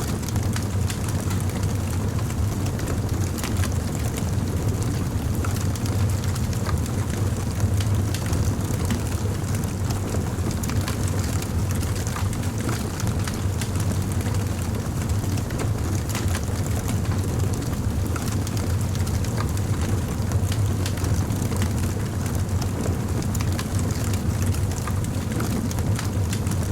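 Crackling fire: a steady low rumble under frequent small pops and crackles scattered irregularly throughout.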